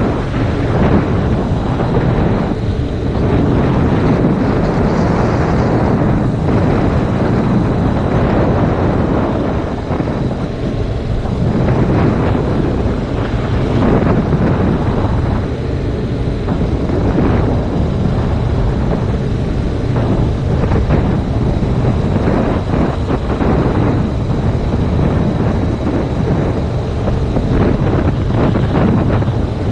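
Heavy wind buffeting on an action camera's microphone on a moving motorcycle: a loud, dense low rumble that swells and dips, drowning out the bike.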